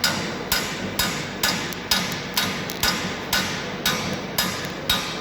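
Body-position (ride-height) sensor on a 2018 Skoda Octavia A7 facelift giving sharp creaking clicks in a steady rhythm, about two a second: the sign of a sticking sensor.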